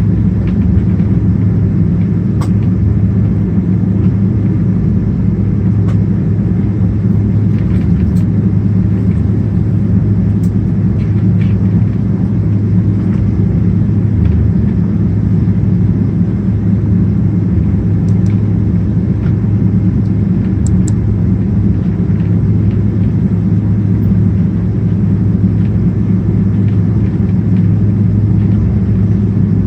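Cabin noise of a Boeing 777-200ER during takeoff, its two GE90 engines at high thrust: a loud, steady low rumble, with a few faint rattles from the cabin.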